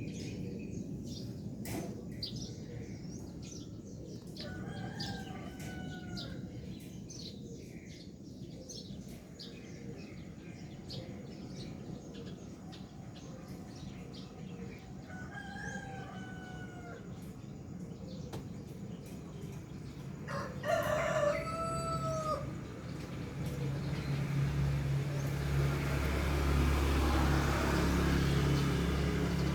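A rooster crowing three times, the last crow louder. From about three-quarters of the way in, a steady low engine hum rises and takes over.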